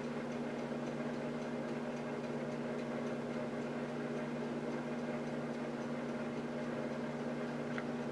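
Steady low indoor hum with a few fixed tones, and a faint, fast, regular ticking above it. A faint short chirp comes near the end.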